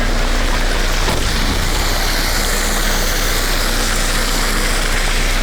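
Steady rush of rain and wind noise on the microphone, with a faint steady hum underneath.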